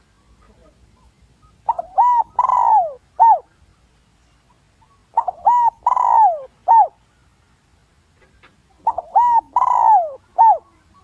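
Spotted dove (chim cu gáy) singing its cooing phrase three times, about three and a half seconds apart: each phrase a few short coos, a longer falling coo and one short closing coo. It is a decoy dove's territorial call, used to draw wild males in to fight.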